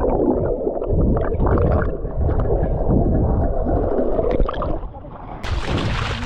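Muffled underwater churning and gurgling from swimming with the microphone submerged in the sea. About five seconds in, it breaks the surface and bright open-air splashing and rushing noise take over.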